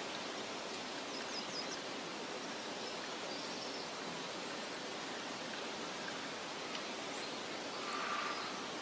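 Meadow ambience: a steady soft hiss of wind and rustling, with a few faint, short, high bird chirps about a second and a half in and again later on.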